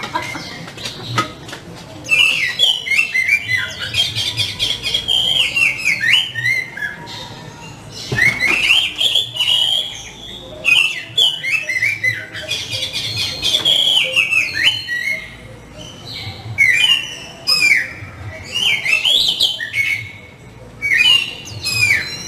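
Oriental magpie-robin (kacer) in full, vigorous song: loud, varied phrases of quick whistles and chirps, sliding up and down, delivered in bursts a few seconds long with brief pauses between them.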